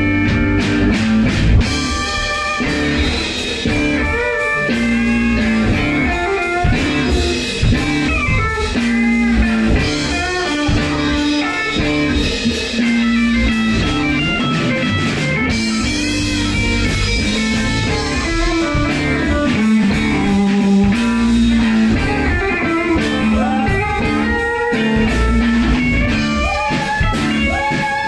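Rock band playing an instrumental passage in a blues-rock style, guitar to the fore over a repeating bass line and drums.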